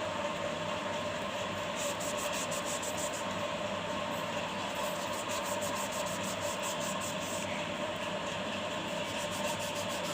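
Steady mechanical hum with a constant mid-pitched tone and an even hiss underneath.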